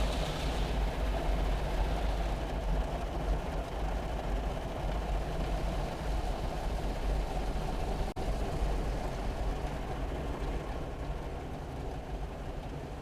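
YASUI Miracon Rush automatic gantry car wash machine running: a steady low rumble with a hiss over it, easing off slightly toward the end, with a brief dropout about eight seconds in.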